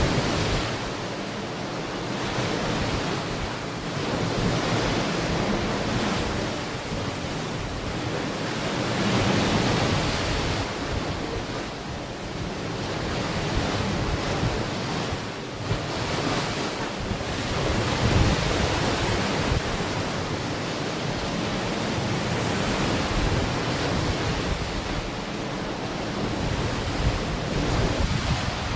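Ocean waves breaking and washing onto a beach, the surf swelling and ebbing every few seconds. Wind rumbles across the microphone.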